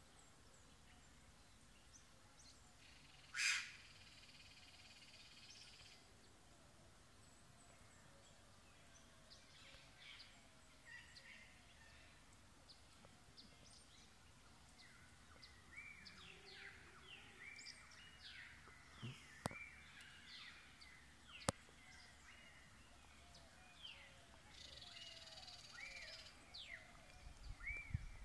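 Wild birds calling. One loud, harsh call comes about three seconds in, then many short chirps and whistles from about halfway on. Two sharp ticks come in the second half.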